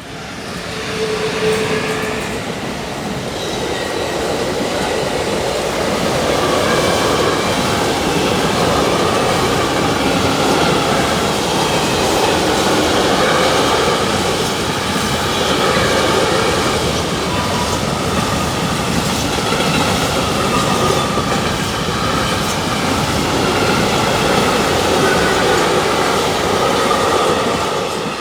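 A train passing close by for nearly half a minute: the steady rush and rattle of its wheels on the rails. It swells in the first couple of seconds and starts to die away near the end.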